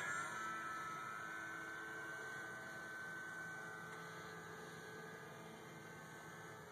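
An RC airplane's electric motor and propeller whine at a steady pitch, growing steadily fainter.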